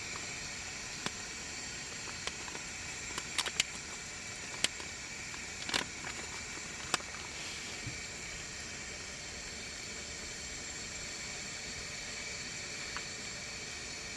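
Single-burner cassette gas stove running with a steady hiss, with a handful of light clicks and taps in the first half.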